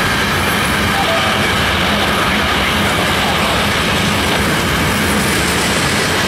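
Freight train's open-top hopper cars rolling past: a steady, loud rumble of steel wheels on rail.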